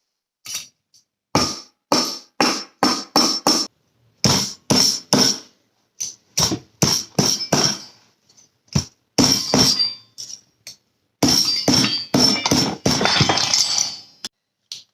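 Hammer blows on steel: sharp ringing metallic strikes in runs of quick strokes, about three a second, with short pauses between the runs and a faster, denser run near the end.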